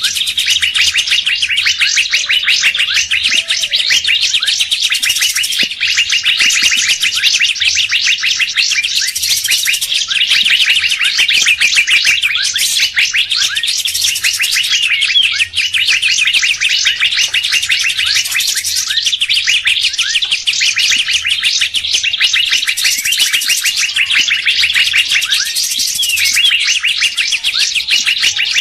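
Bird-lure recording of several songbirds: dense, continuous high chattering and twittering, with a louder, brighter burst of calls about every four to five seconds.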